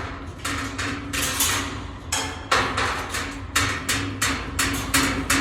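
Umbrella cockatoo working a loose cage part with its beak, rattling and knocking it against the cage: a run of sharp, irregular clicks and knocks, about two or three a second.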